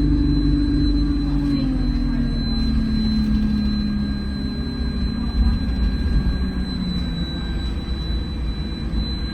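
Inside an Alexander Dennis Enviro200 bus under way: the diesel engine's drone slowly falls in pitch for several seconds, then steps back up about seven seconds in, over a low road rumble. A thin, steady high whine runs over it, the weird vacuum-cleaner-like noise that the uploader puts down to the air-conditioning cooling fan.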